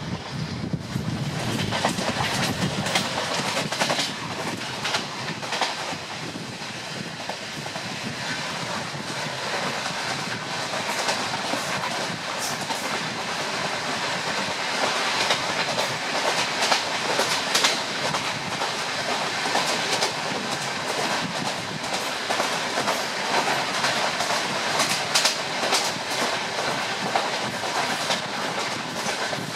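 A passenger train running along the rails: a steady rumble and rush of wheels on track, with frequent irregular clicks and clatter as the wheels pass over rail joints.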